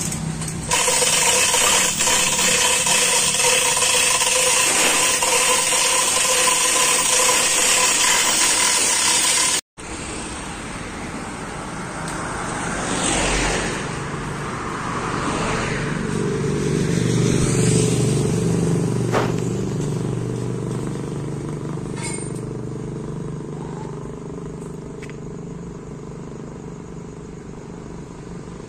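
Loud steady mechanical noise with a whine in it, which stops abruptly about ten seconds in. It is followed by a motor vehicle's engine that grows louder about two-thirds of the way through and then fades.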